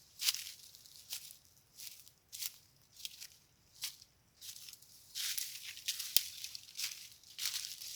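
Footsteps crunching on dry leaves and parched ground, a crackly step about every half second, with a longer run of rustling about five seconds in.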